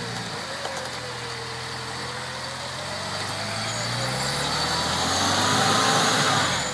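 UAZ off-road vehicle's engine running, growing steadily louder from about two seconds in, then dropping away suddenly near the end.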